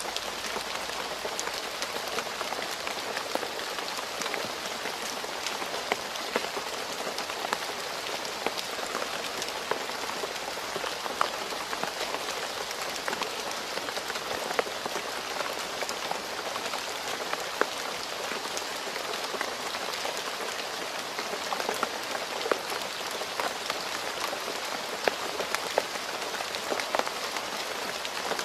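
Steady rain falling on a road, an even hiss with many separate drops pattering and ticking throughout.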